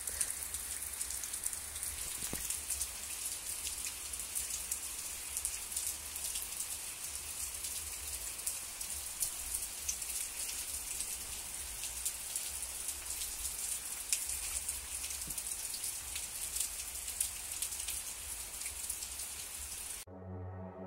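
Steady, calm rain with no wind: an even hiss of falling rain with scattered drops ticking close by. Near the end it cuts to ambient electronic music.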